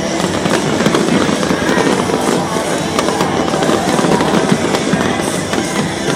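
Dense fireworks display: rapid, overlapping crackles and pops going on without a break, with music playing underneath.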